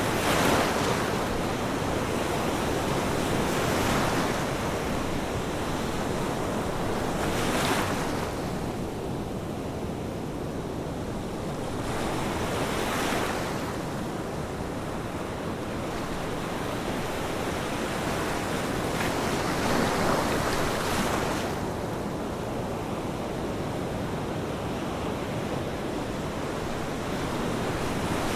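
Ocean waves breaking in a steady wash of surf, with a louder break swelling up every few seconds.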